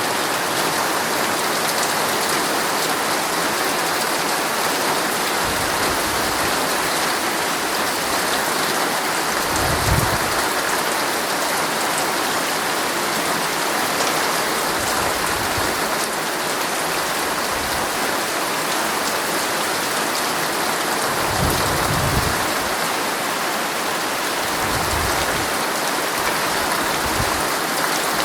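Heavy rain falling steadily on a tent's fabric, heard from inside the tent. A few brief low thuds break through, the strongest about ten seconds in.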